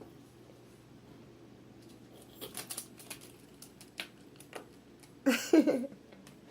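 Scattered light clicks and taps, a few at a time. About five seconds in comes a brief, louder, voice-like sound with a wavering pitch.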